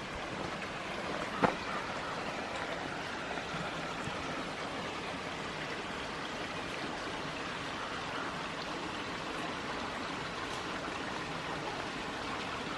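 Steady, even rush of water from a waterfall, with one short sharp knock about a second and a half in.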